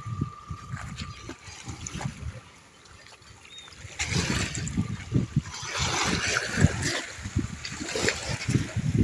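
Seawater washing and trickling among shoreline rocks, swelling noticeably about four seconds in, with scattered low thuds throughout.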